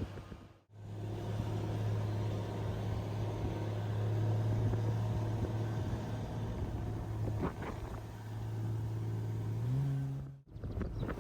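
Car engine and road noise while driving: a steady low hum whose pitch steps up slightly near the end. The sound cuts out briefly about a second in and again near the end.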